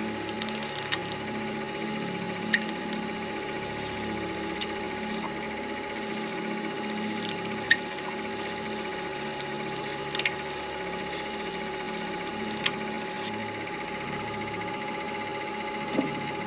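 Midi lathe motor running steadily with a hum, spinning an acrylic pen blank during micro mesh sanding. A few short sharp ticks are heard now and then.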